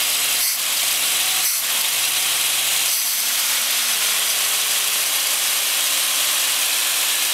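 1962 Ford Fairlane's 200 cu in straight-six, with its freshly rebuilt cylinder head, idling while its carburetor idle speed is adjusted, under a steady hiss. The idle dips twice briefly in the first two seconds, then its pitch shifts about three seconds in and settles.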